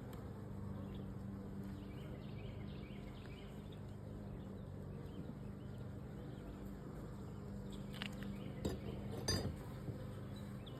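Honeybees buzzing steadily around an open hive, with a few light clinks and knocks about eight to nine and a half seconds in.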